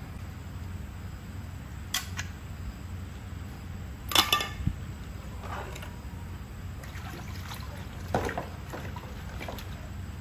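A few sharp clicks and knocks over a steady low hum; the loudest comes about four seconds in and another cluster near the end.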